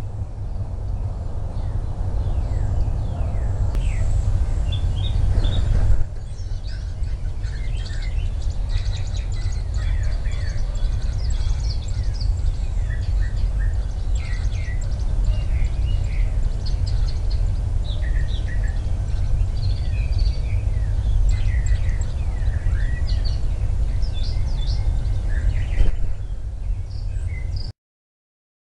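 Birds chirping outdoors, many short high calls scattered throughout, over a steady low rumble. The sound changes abruptly about six seconds in and cuts off suddenly near the end.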